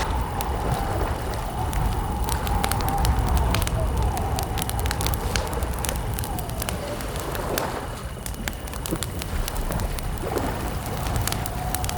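Wood campfire crackling with frequent irregular sharp pops over a steady low rumble.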